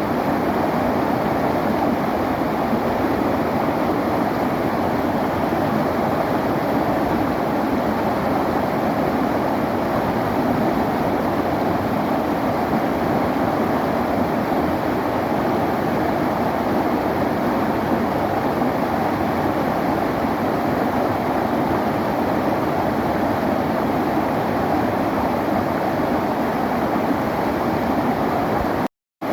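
A river flowing, a steady, even rush of water with no let-up in level. It breaks off for a moment near the end.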